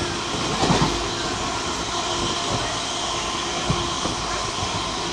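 Train running: steady running noise with a faint steady hum and a few scattered low knocks.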